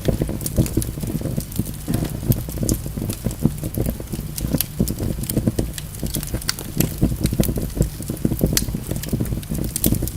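Wood fire burning in a fireplace: a low steady rumble of the flames with frequent sharp crackles and pops from the logs.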